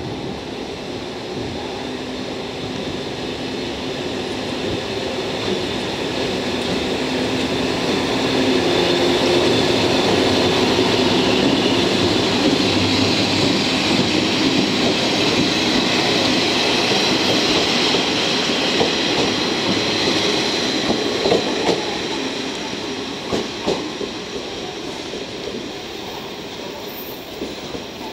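An EF65 electric locomotive hauling two KiHa 47 railcars rolls past, the rumble of wheels on rail rising as the cars go by, with a steady high squeal from the wheels in the middle. Near the end a few clicks of wheels over rail joints are heard as the train draws away and the noise fades.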